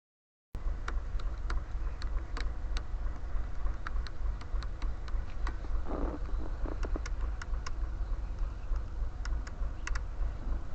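Steady low rumble with many scattered sharp clicks and ticks, as of a motorcycle riding over a rough track. The sound drops out completely for about half a second at the start.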